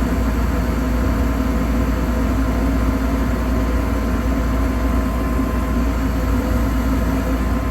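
Steady low rumble of a vehicle running, heard from inside the cab.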